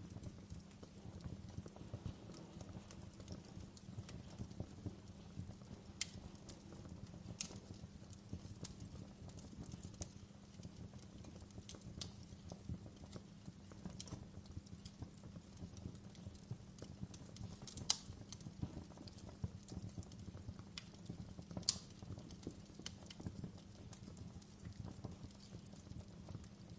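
Wood fire crackling in a fireplace: a steady low rumble of flames under a constant patter of small crackles, with a few sharper, louder pops, the loudest about 18 and 22 seconds in.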